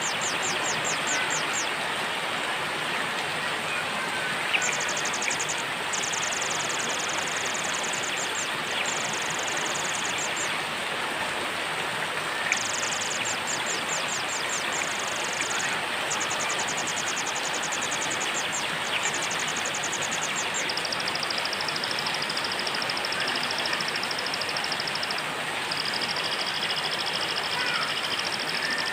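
Steady rain with a small bird's rapid high trills repeating in short bursts, then settling into longer unbroken high trills in the last third.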